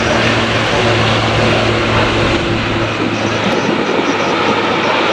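Wide-body jet airliner's engines, loud and steady, with a low hum running under the noise.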